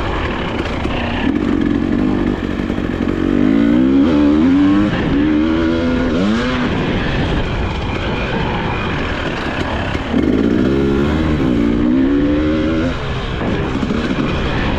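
A 2022 Husqvarna TE300i's 300cc single-cylinder two-stroke engine running hard under a rider. Its pitch climbs in steps twice, as if shifting up through the gears, with a quick drop and pick-up about six seconds in.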